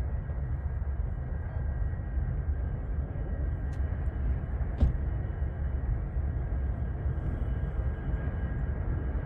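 Steady low rumble of a freight train's diesel locomotives running, with faint steady higher tones over it and two brief clicks about four and five seconds in.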